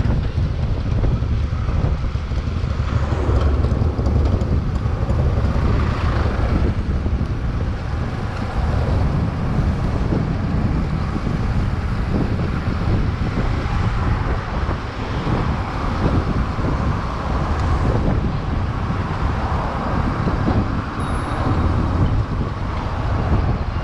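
Steady wind rumble on the microphone of a moving bicycle, mixed with city road traffic noise.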